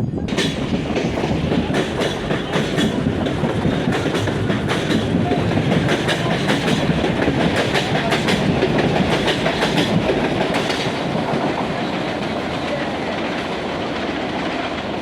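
Supervia CNR 3000-series electric train passing close by, its wheels clattering over the rail joints in a stream of irregular clicks. The sound begins abruptly, is loudest about halfway through, and eases a little toward the end.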